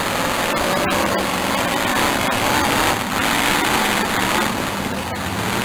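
Demolition derby car engines running, a loud, steady mechanical din with no single crash standing out.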